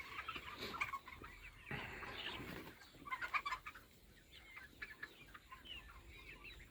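A flock of young chickens, about ten weeks old, clucking and chirping faintly on and off, with a brief rustle about two seconds in.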